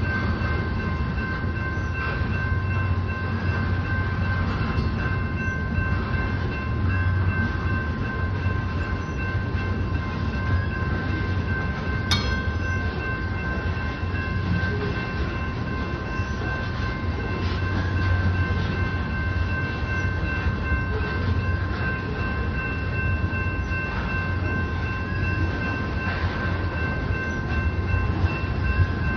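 Union Pacific oil train of tank cars rolling past: a steady rumble of wheels on rail with several steady high-pitched ringing tones running through it, and a single sharp click about twelve seconds in.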